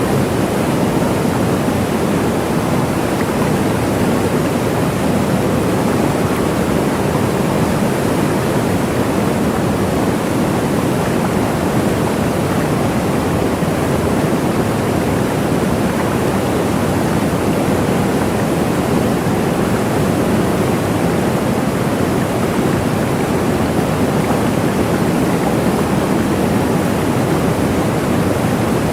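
Waterfall: a loud, steady rush of falling water, even throughout, with no birds or other events on top.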